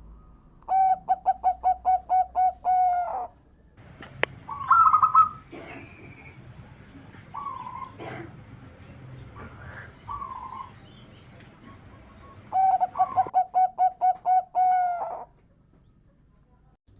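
Male zebra dove (perkutut) singing: two bouts of its rapid, staccato cooing song, each about ten quick notes over some two and a half seconds, with softer short calls between the bouts.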